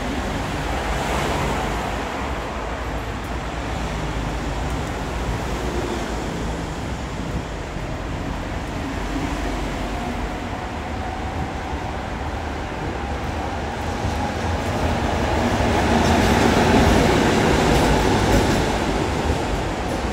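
A rail vehicle running on its rails, with a steady rumble and a faint whine partway through. The sound grows louder about three-quarters of the way in as it draws closest.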